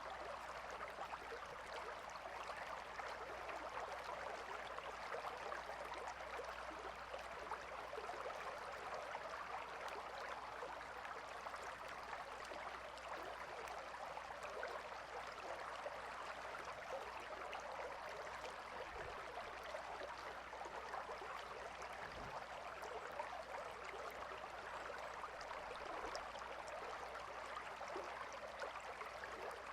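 A calm river flowing steadily: an even, unbroken rush of running water flecked with small splashes.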